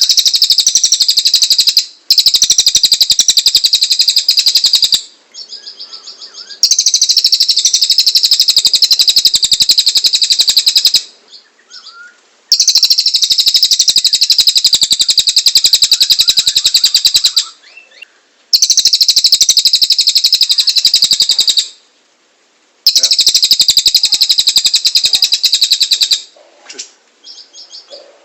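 Cililin singing a loud, harsh, very fast rattling trill, high in pitch, in long bursts of three to five seconds with short pauses between them, about six bursts in all.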